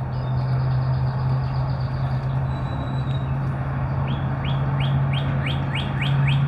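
A bird sings a fast run of down-slurred whistles, about three a second, starting about four seconds in, over a steady low hum and background noise.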